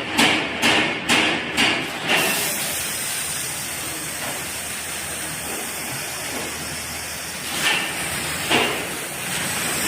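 Compressed air hissing steadily through a pneumatic motorcycle service lift. It begins after a run of short air bursts, about two a second, in the first two seconds, and two more bursts come near the end.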